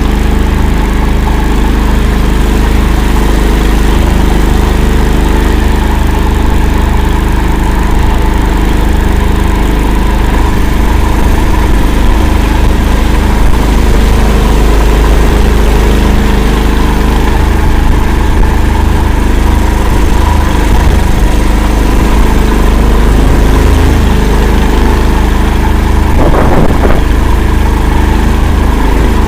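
All-terrain vehicle's engine running steadily and loudly as it drives, with a brief knock near the end.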